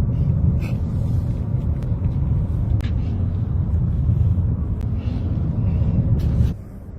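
Steady low rumble of a car being driven, with a few short clicks and ticks. It cuts off abruptly near the end.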